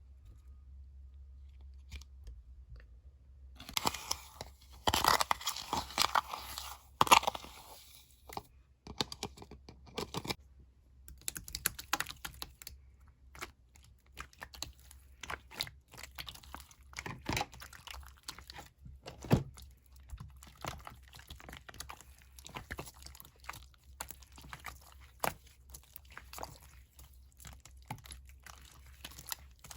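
Slime mixed with colored sand being squished and pressed by hand, giving crunchy crackling. There is a dense, loud run of crackles about four to eight seconds in, then scattered clicks and pops.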